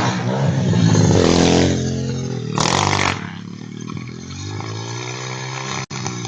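Small dirt bike engine revving hard, with a short loud scraping clatter about two and a half seconds in, after which the engine keeps running at a lower, steadier pitch.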